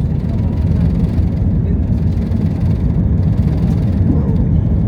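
Steady low rumble of an Airbus A320's engines and airframe, heard from inside the passenger cabin.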